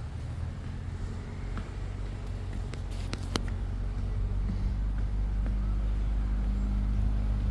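A motor engine running steadily at low revs, slowly growing louder, with a few sharp clicks about three seconds in.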